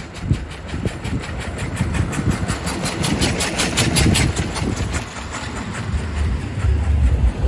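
Single-cylinder engine of a 1901 Curved Dash Oldsmobile running with a rapid, even beat of firing strokes. In the last couple of seconds a deeper low rumble comes up under it.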